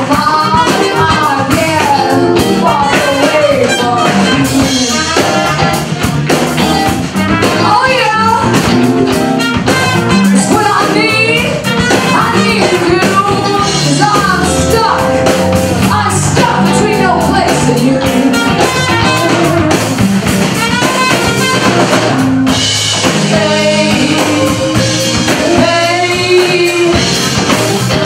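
Live blues band playing, with electric guitar and drum kit, at a steady loud level.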